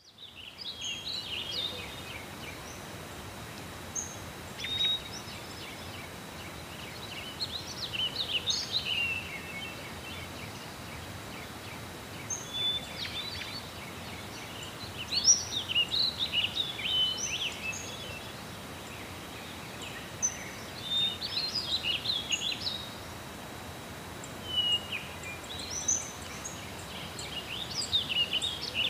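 Songbirds singing in short bursts of chirps and trills every few seconds over a steady background hiss.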